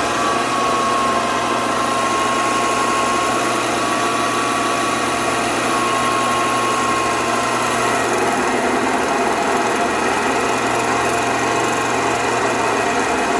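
CNC machine running with a steady mechanical noise. A slightly wavering whining tone rides over it and stops about eight seconds in.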